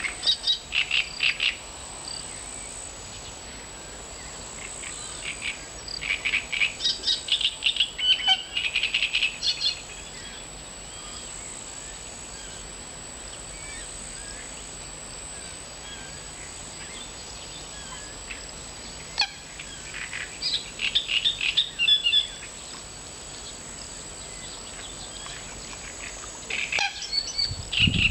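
Nightingale singing in separate phrases of fast, repeated high notes, with pauses of several seconds between phrases, over a steady background hiss.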